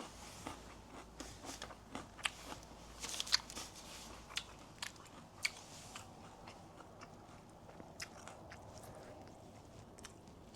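A person chewing and biting food, with faint, scattered crunches and wet mouth clicks that come thickest in the first half.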